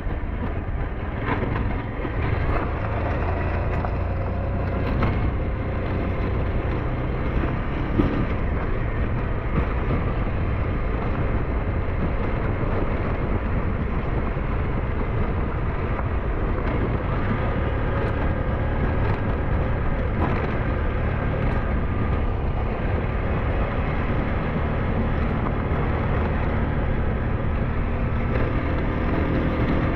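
SYM NH-T 200 motorcycle running steadily under way, with wind rumble on the microphone and a few brief knocks from the ride.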